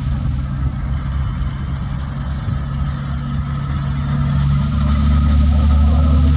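Heavy truck engine running at low revs, growing louder about four seconds in.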